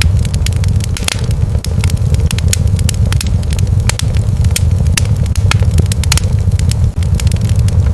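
Wood fire crackling and popping in irregular sharp snaps, over a steady low rumble.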